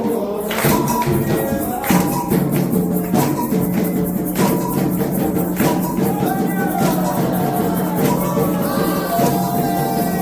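Candomblé toque: drums and rattling percussion play a steady rhythm under a sung chant.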